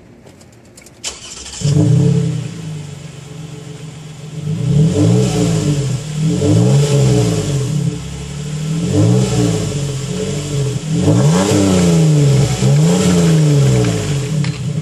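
2011 Toyota Sienna SE's V6 exhaust through a swapped-in Infiniti G35 muffler: the engine starts about a second and a half in with a brief flare, settles to idle, then is revved about five times.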